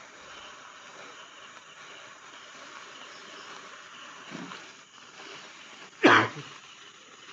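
Steady insect chirring, with one short, loud, sudden sound about six seconds in.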